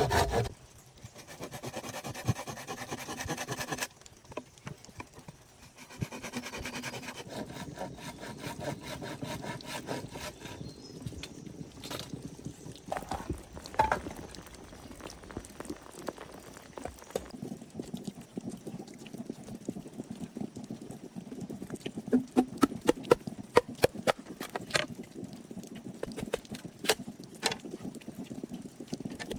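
Hand tools working wood: rubbing, sawing-like scraping in short sections, then a long run of sharp knocks in the latter half.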